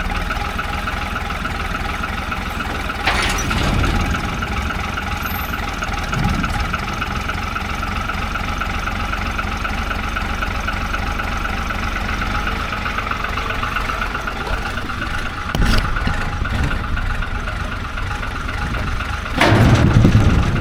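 A vehicle engine running steadily at low speed while the vehicle is manoeuvred. Short knocks or clunks come about 3 and 15 seconds in, and a louder, longer clunk near the end.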